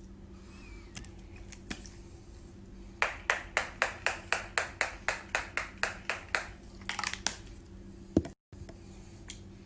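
A quick, even run of about fourteen sharp claps or taps, roughly four a second, starting about three seconds in, a few more shortly after, then a single thump near the end.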